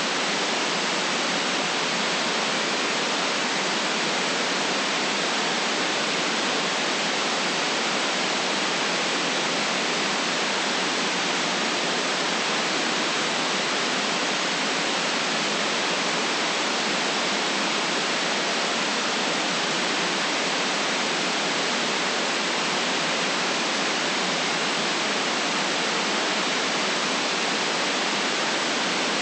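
Steady artificial white noise: an even, unbroken hiss with no deep bass and no top treble, unchanging throughout.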